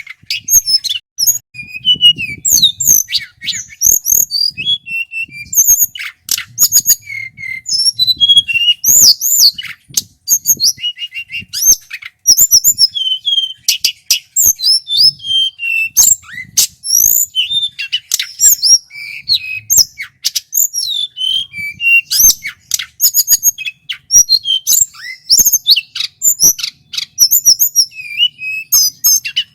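Male tledekan gunung (hill flycatcher) singing loudly without pause: a fast, varied run of clear whistles, rising and falling glides, chirps and trills.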